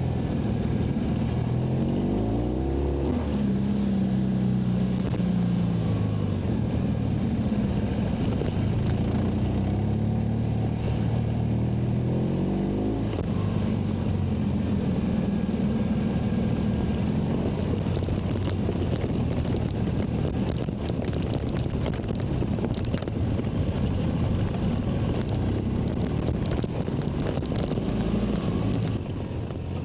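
BMW R1200GS boxer-twin engine running under way with wind and road noise, its pitch climbing about two seconds in and again about thirteen seconds in as it pulls up through the revs. Scattered sharp ticks in the second half.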